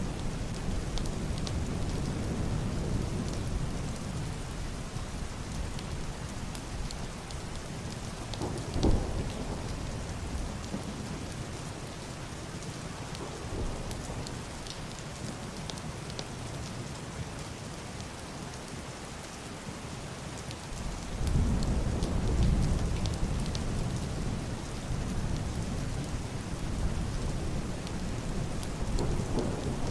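Heavy rain falling steadily on a roof and window glass, with scattered sharp drop ticks. Deep, muffled distant thunder: a short low clap about nine seconds in and a longer rumble swelling up about two-thirds of the way through.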